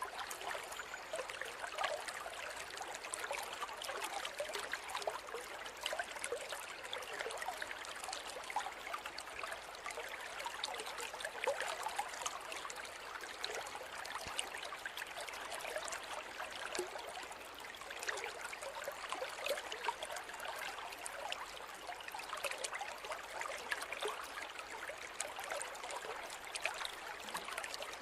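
Forest river or stream running steadily over rocks, a continuous babble of rushing and trickling water with small splashes.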